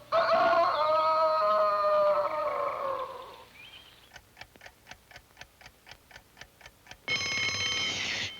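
Cartoon soundtrack: a held orchestral passage fades out, then a clock ticks quickly and evenly for about three seconds. Near the end an alarm clock bell rings loudly for about a second and cuts off.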